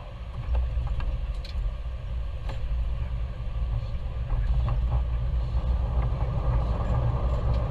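Jet airliner cockpit noise on the ground run: a steady low rumble from the engines and the runway. It steps up in loudness about half a second in and again around four seconds in, with a few faint clicks.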